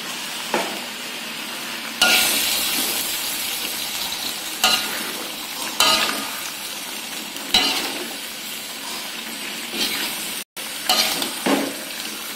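Raw chicken pieces sizzling in hot spice paste in a metal wok as they start to fry. A metal spatula scrapes and knocks against the pan every second or two, and the sizzle gets louder about two seconds in.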